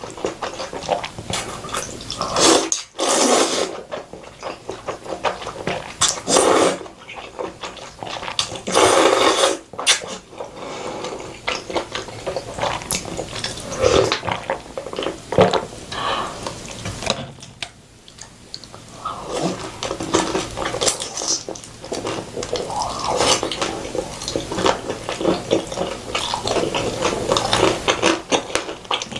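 Close-miked eating sounds: a person slurping noodles in several loud pulls of about a second each, with wet chewing between them.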